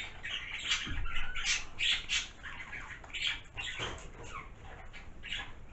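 A pump body spray being spritzed several times, a run of short hissing puffs.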